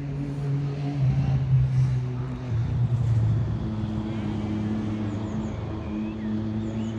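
A motor vehicle's engine running steadily with a low hum, its pitch shifting slightly about halfway through.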